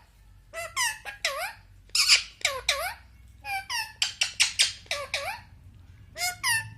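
Indian ringneck parrot giving short, high-pitched calls in about four quick bursts, the loudest about two seconds in.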